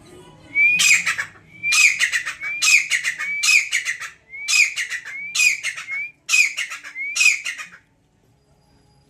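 Grey francolin calling: a loud run of about eight harsh, rhythmic phrases, each beginning with a short rising whistle, stopping near the end.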